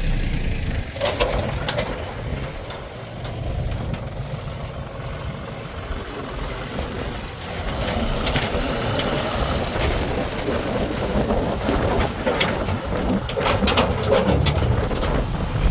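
Diesel engine of a JCB 3DX backhoe loader running while it loads mud, with several short sharp knocks scattered through, the loudest about a second in and near the end.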